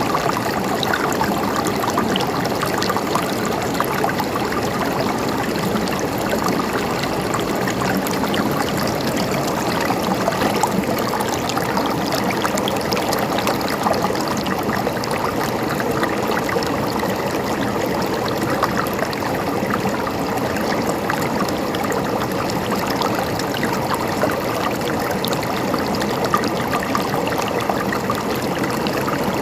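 River water flowing steadily over rocks, a continuous babbling and gurgling with many small splashes.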